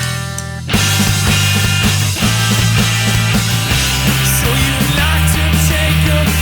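Rock band playing an instrumental passage with bass, guitars and drums. It opens on a short break where only a low note holds, and the full band crashes back in less than a second in.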